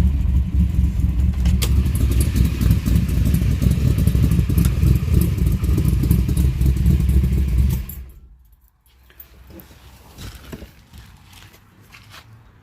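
A 1955 Chevy sedan delivery's newly installed engine running steadily, then switched off about eight seconds in. Faint clatter and a few light knocks follow.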